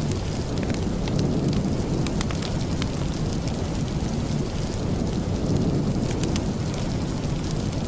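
Steady heavy rain with a deep, even rumble underneath, dotted with scattered sharp ticks.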